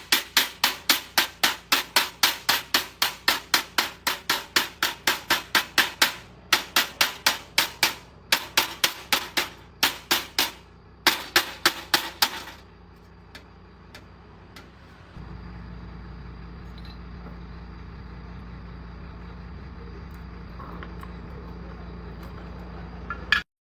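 Rapid hammer blows, about three or four a second in runs with short breaks, stopping about twelve seconds in. A few seconds later a steady low hum starts and runs until the sound cuts off abruptly near the end.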